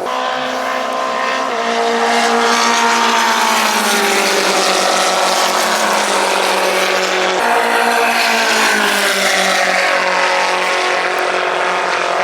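Trans Am class race car engines running loudly, their pitch stepping and gliding up and down several times as they rev.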